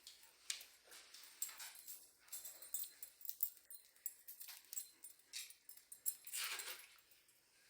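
A dog moving about a quiet room: faint, irregular ticks and scrapes, with a longer soft rasp about six and a half seconds in.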